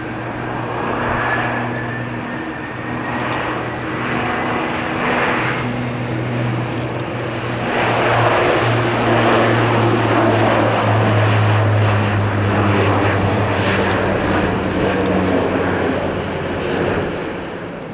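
Bombardier Dash 8 Q400 twin-turboprop taking off: its propellers give a steady low drone, with a faint whine rising in pitch in the first seconds. The sound grows louder about eight seconds in and eases near the end.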